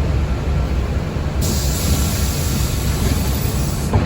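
Steady low rumble inside a moving city transit vehicle, with a hiss of air starting about a second and a half in and cutting off near the end.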